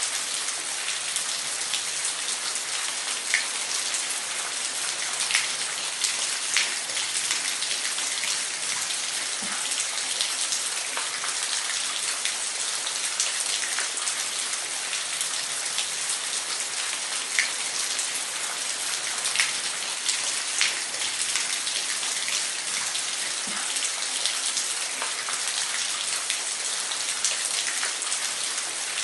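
Falling water: a steady, even hiss of water splashing, with scattered sharp drops and splashes standing out now and then.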